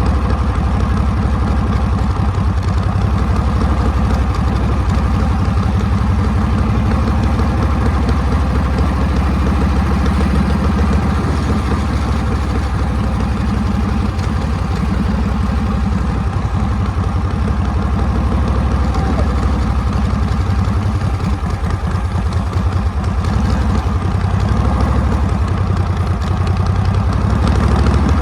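Harley-Davidson Panhead V-twin motorcycle engine running steadily at low revs, close up, with no big revving; it gets slightly louder near the end.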